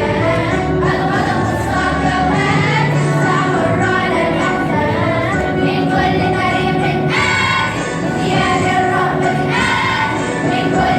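A school choir of young voices singing an Arabic nasheed together, the sung melody continuing without break.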